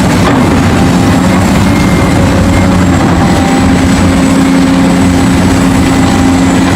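Loud, steady heavy engine sound effect of an excavator running at an even idle.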